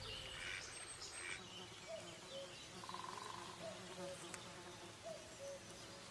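Faint spring woodland ambience: insects buzzing, with short soft calls repeating every second or two and a few brief chirps early on.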